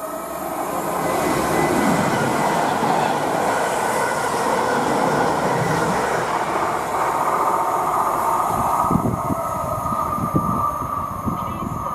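Electric multiple-unit trains running through a station: a loud rush of wheel and rail noise that swells in over the first couple of seconds. Later a Class 321 unit approaches with a steady high whine and a few heavy knocks from its wheels.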